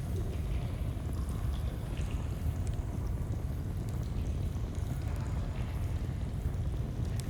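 Steady low rushing of flowing stream water, mixed with faint, scattered crackles and pops from a campfire.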